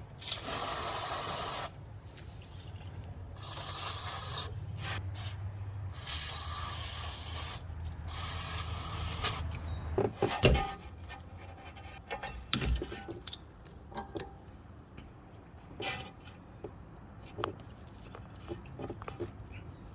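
Four bursts of steady spray-like hiss, each one to two seconds long, in the first half. Scattered short clicks and knocks follow.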